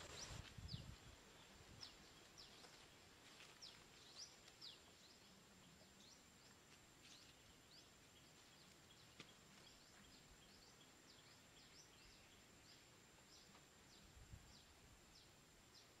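Faint outdoor ambience: many short, high, downward-sliding bird chirps at irregular intervals over a steady thin high-pitched whine, with a soft low rumble in the first second.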